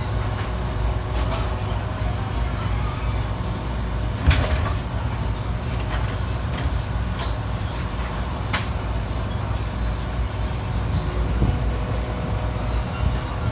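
Garbage truck engine running steadily, with one sharp loud bang about four seconds in and a few lighter knocks later.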